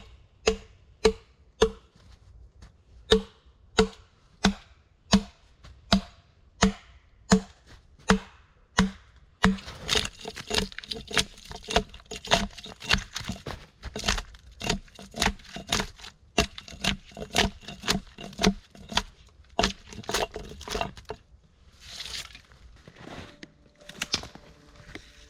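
Wood being chopped: steady, sharp blows about two a second with a short woody ring. About ten seconds in they turn faster and lighter, mixed with splintering, and they stop a few seconds before the end.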